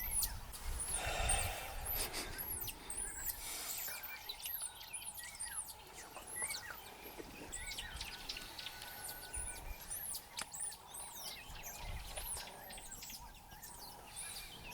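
Many wild birds chirping together, a dense run of short, high chirps repeating one after another, with a brief rush of noise about a second in.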